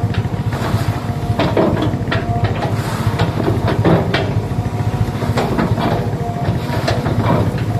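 Excavator's diesel engine running steadily, with a steady whine above it and many irregular sharp cracks and crunches as it breaks up an oil palm tree.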